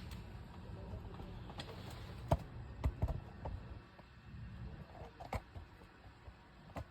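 A handful of short, sharp knocks and clicks, about five, spread irregularly over a low steady rumble.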